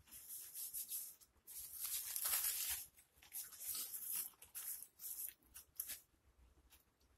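A person chewing a mouthful of pulled pork sandwich close to the microphone: a run of hissy mouth noises in uneven bursts. The longest stretch comes about two seconds in, and the bursts die away about six seconds in.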